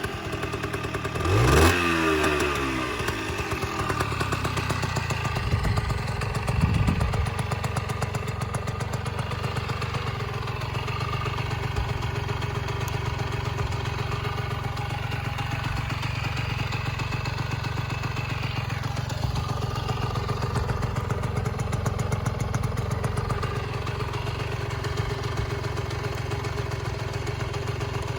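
Honda Racoon AD02 engine running: a quick rev about a second and a half in that rises and falls back, two shorter blips a few seconds later, then a steady idle.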